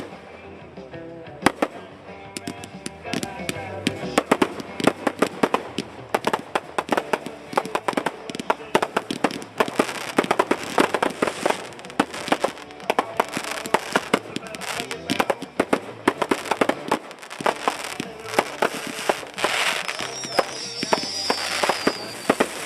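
Fireworks exploding in rapid, dense succession: many sharp bangs and crackles, with music playing underneath. A high wavering whistle sounds about twenty seconds in.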